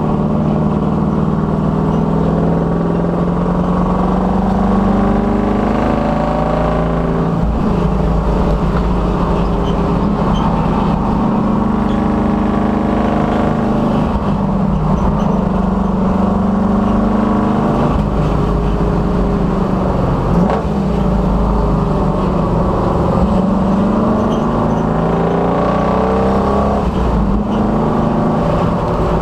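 Race-prepared 1966 Dodge Dart's engine pulling hard on track, its pitch climbing steadily through long accelerations and dropping sharply three times where it shifts or lifts.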